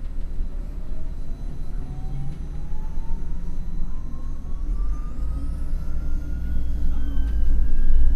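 MAN NL253 Hybrid city bus accelerating: a thin whine rising steadily in pitch over a low rumble, with the rumble growing louder about halfway through.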